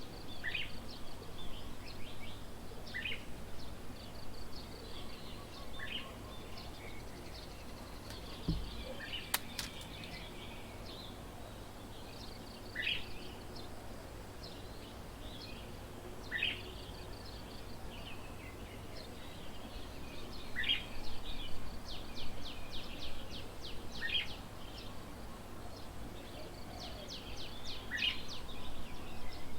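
Wild birds calling outdoors: one bird repeats a short, downward-sweeping call every few seconds while others chirp, with a quick run of notes about two-thirds of the way through, over a steady low background hum. A single sharp click about nine seconds in.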